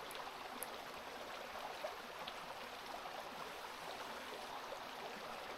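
Steady rush of a river flowing, with a few faint clicks over it.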